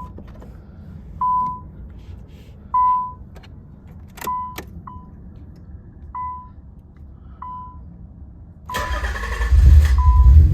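Factory warning chime of a 1990 Nissan 300ZX dinging about once every second and a half, with a few sharp key clicks. Near the end the starter cranks briefly and the cold 3.0-litre V6 fires into a loud, low rumble while the chime keeps going.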